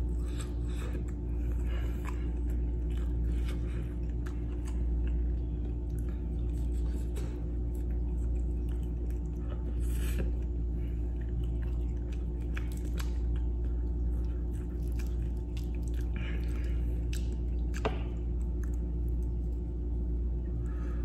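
Close-miked mouth sounds of chewing and biting food, with scattered wet crackles and crunches and a sharp click near the end, over a steady low electrical hum.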